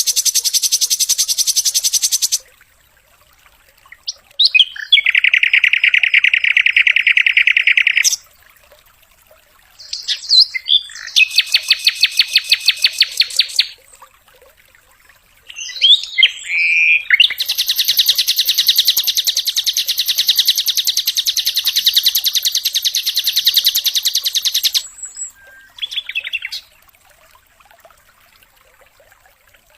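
Sikatan londo flycatcher singing in rapid machine-gun trills: five phrases of fast repeated notes, the longest about seven seconds in the second half, with short quiet gaps between them.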